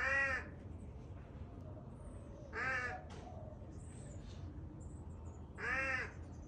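Crow cawing: three short calls, one near the start, one about 2.6 s in and one near the end.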